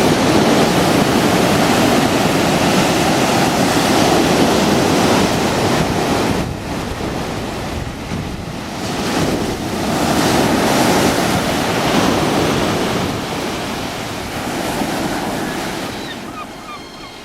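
Heavy surf from a rough sea: waves breaking and washing up the shore in long surges, with wind buffeting the microphone. The noise eases briefly and swells again, then fades toward the end.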